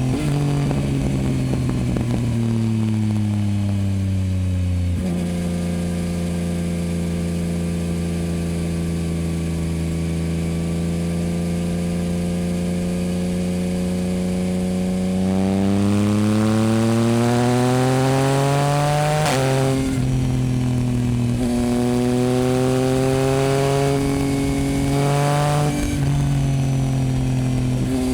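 Yamaha MT-09's inline three-cylinder engine through a Dominator HP8 aftermarket exhaust, under way. The note falls as the bike slows over the first few seconds, then holds steady. About halfway it climbs under acceleration, then dips sharply in pitch at a gear change, and dips briefly again near the end.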